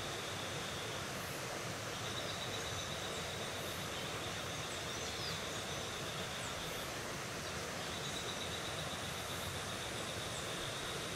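Rainforest ambience: an insect trills steadily at a high pitch in long phrases of several seconds with short breaks, over an even hiss, with a few faint bird chirps.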